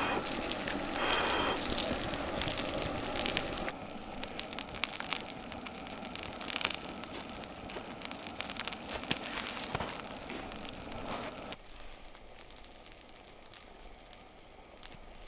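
Wood campfire crackling with many small pops, the sound changing abruptly twice and much quieter in the last few seconds.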